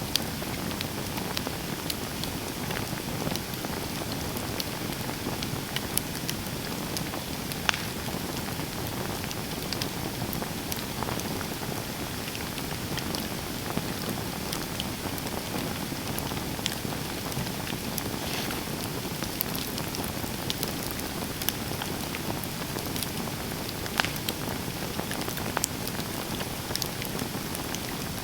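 Campfire burning: a steady crackling hiss with scattered sharp pops, one louder pop near the end.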